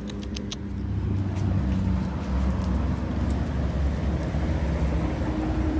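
Road traffic: a steady low rumble of car engines and tyres, with a few light clicks in the first half second.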